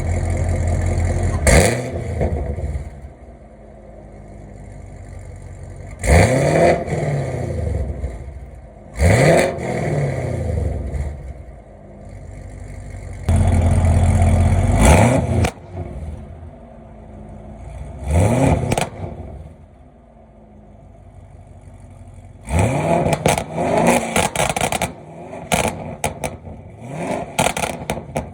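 Supercharged Chevrolet Camaro engine being revved repeatedly, each rev climbing quickly in pitch and falling back, two of them held high for a second or two. The exhaust crackles and pops as the revs drop off, with a rapid string of pops near the end.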